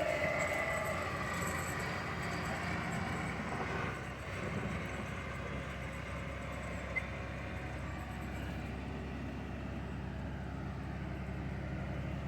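Motor grader plowing snow with its diesel engine running as it moves off. A higher whine drops slightly in pitch and fades over the first few seconds, leaving a steady low engine rumble.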